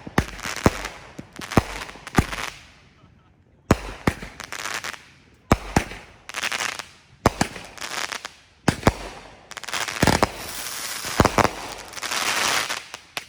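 Consumer aerial fireworks bursting overhead: sharp bangs every second or two, each trailed by crackling. Near the end the bangs come in quick pairs and the crackling runs on for a few seconds.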